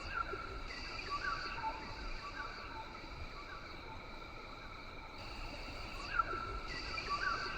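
Rainforest ambience: a steady chorus of insects buzzing at several pitches, with short chirping bird calls repeating every second or so over a faint low rumble.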